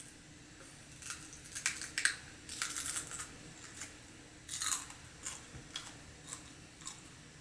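Biting into and chewing a raw jalapeño pepper: a run of crisp crunches a second or two in, then a few more, sparser crunches through the middle.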